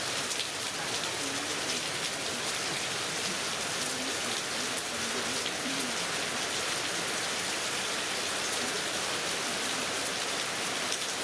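Heavy rain falling steadily, a dense even hiss with scattered drops ticking on nearby surfaces.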